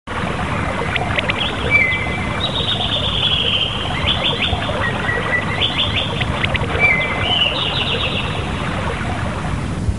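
Birds chirping and trilling in quick series of short notes over a steady background hiss, like a recorded nature ambience.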